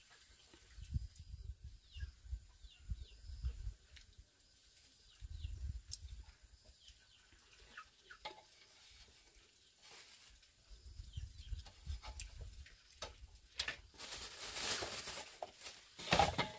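Small birds chirping with short, repeated downward calls, over irregular low rumbling bursts; near the end a louder burst of noise.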